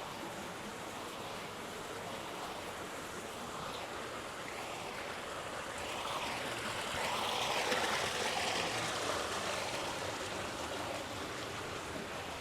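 Steady rushing of flowing water, growing louder for a few seconds midway and then easing back.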